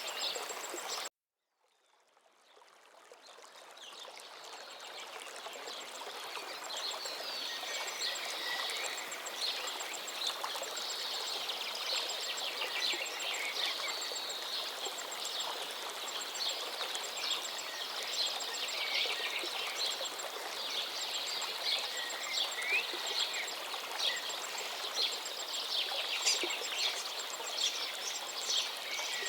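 Forest river flowing steadily with many songbirds chirping and trilling over it. About a second in, the sound cuts out completely, then fades back up over a few seconds.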